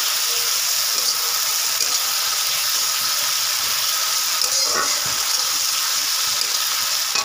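Spice paste with a little water sizzling steadily in hot oil in a metal kadai while being stirred with a spatula, with small crackles: the masala being fried down (kosha).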